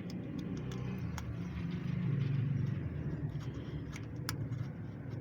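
Low, steady motor-vehicle engine rumble that swells about two seconds in, with scattered light clicks over it.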